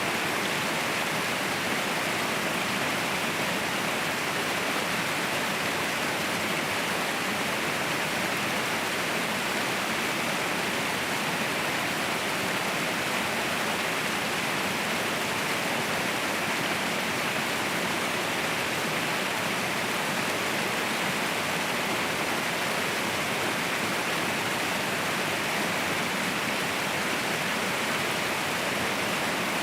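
Mountain waterfall rushing in a steady roar of falling water, even and unbroken throughout.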